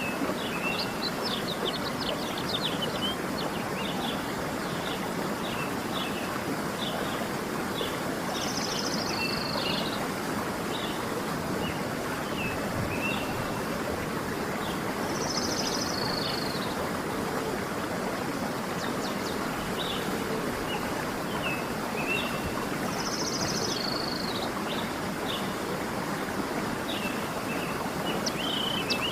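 Waterfall rushing steadily, with small birds chirping over it. One bird repeats a short high trill that drops in pitch at the end, three times about seven seconds apart.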